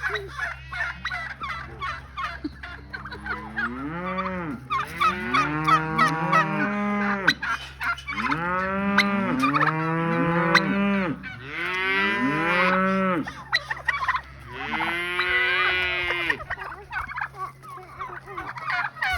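Several farm animals calling loudly, a run of long, overlapping calls that rise and fall in pitch through the middle of the stretch, with quicker, higher calls in the first few seconds.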